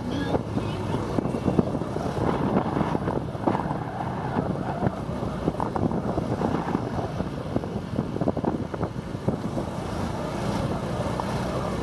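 Wind buffeting the microphone on a moving motorbike, over the steady low running of its engine.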